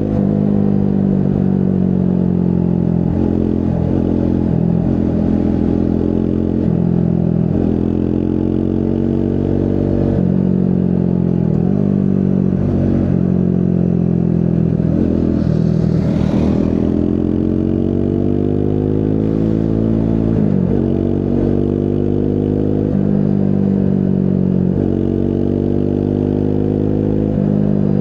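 Triumph Scrambler 400 X's single-cylinder engine running under way. Its pitch dips and climbs again and again as the throttle and gears change, with a longer climb a little past halfway. There is a brief hiss about halfway through.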